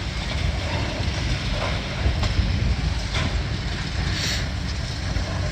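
Demolition machinery rumbling steadily at work on the building, with a few faint knocks and clatters of debris.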